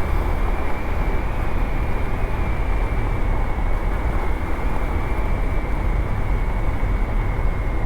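Wind rush and the Honda CT125's 125 cc air-cooled single-cylinder engine at a steady cruise, heard from the rider's mic. The rush is heaviest in the low end, and a thin, steady high whine sits over it.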